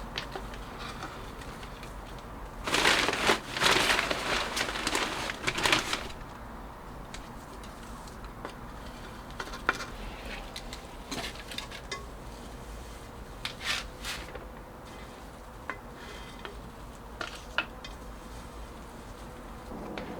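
Objects being handled: a few seconds of loud rustling clatter a few seconds in, then scattered light clicks and knocks.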